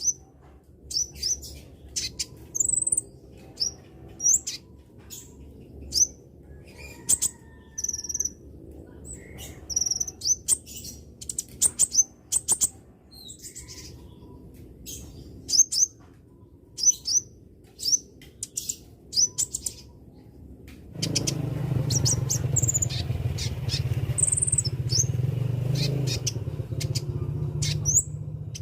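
Konin bird calling with quick, high chirps and short sweeping tweets, coming in irregular bursts with sharp clicks among them. About two thirds of the way through, a steady low rumble joins underneath.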